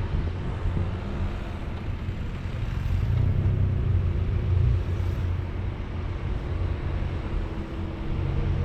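A motor vehicle driving on a road: a steady low engine rumble mixed with road noise.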